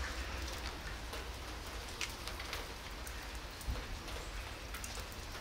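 Steady rain falling on wet asphalt, with many scattered drops ticking close by, and a soft thump about three and a half seconds in.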